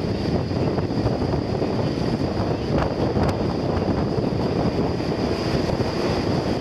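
Steady rumbling noise of the Alaska Railroad Aurora Winter Train under way, with a faint steady high whine.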